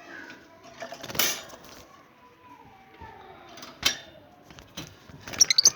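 Metal clatter and sharp clicks from a wire bird cage being handled: a rattle about a second in, a single sharp click near the four-second mark, and a quick run of clicks with short high squeaky notes near the end.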